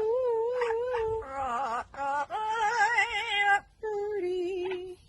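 A parrot vocalizing in long, wavering, song-like notes, four phrases with short breaks between them, the last one lower in pitch.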